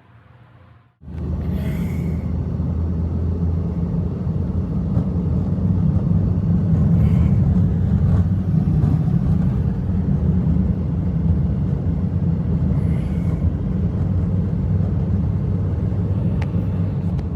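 Strong blizzard wind blowing, a loud steady low rumble that starts abruptly about a second in.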